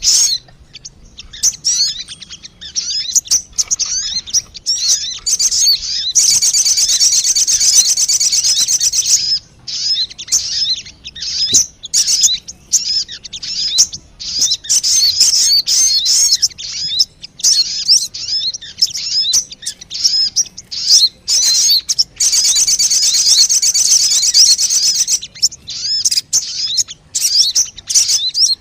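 Sogon bird calls used as a trapping lure: loud, high-pitched chirps in quick irregular runs. They break into a fast continuous twitter for about three seconds, once about six seconds in and again about 22 seconds in.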